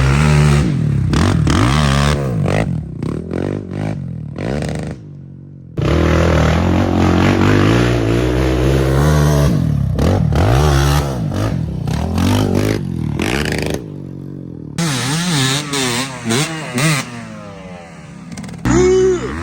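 Off-road quad engine revving hard and falling back again and again, the pitch climbing and dropping with the throttle. The sound breaks off abruptly twice, about five seconds in and again near fourteen seconds.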